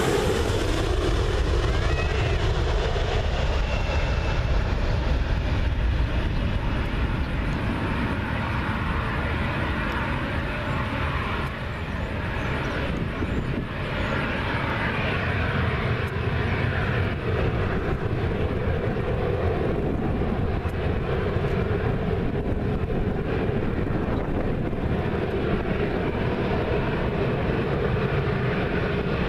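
Jet engine noise from a McDonnell Douglas MD-80 airliner landing, a loud, steady noise heaviest in the low end that holds throughout. Its two rear-mounted JT8D turbofans are the source.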